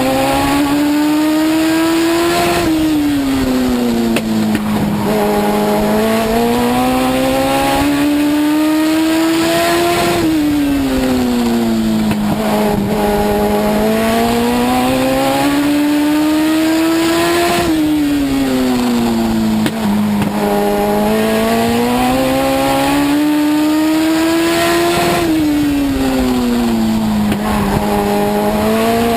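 Legend race car's Yamaha four-cylinder motorcycle engine at racing speed, heard from on board. Its pitch climbs along each straight, then drops sharply as the throttle comes off for the turns, and this repeats about every seven and a half seconds.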